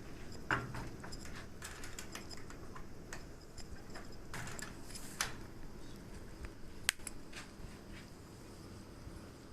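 Campfire cooking with a skillet: irregular crackling and small pops over a low rumble, with one sharp pop about seven seconds in.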